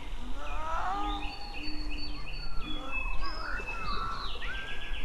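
Several birds singing and calling at once: short whistled notes and glides, a falling run of warbled notes about a second in, and a fast trill near the end, over a steady low rumble.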